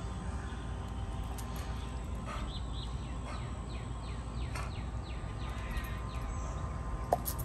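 Low steady outdoor rumble. From about two seconds in, a faint bird sings a run of quick falling notes.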